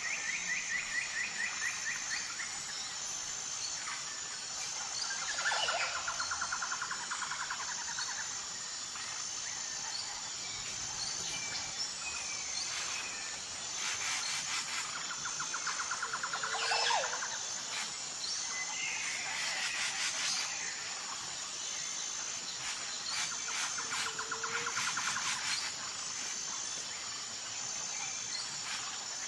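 Natural outdoor ambience: a steady, high insect trill, with birds calling over it in rapid trills of about two seconds, four times, and a few short chirps in between.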